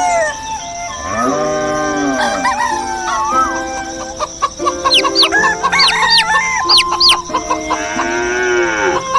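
Rooster crowing, with chickens clucking and quick high bird chirps in between; a long arched crow about a second in and another near the end.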